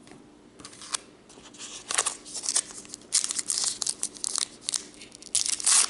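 Foil wrapper of a baseball card pack crinkling and tearing as it is opened by hand, in irregular crackly bursts that start about a second in and grow busier toward the end.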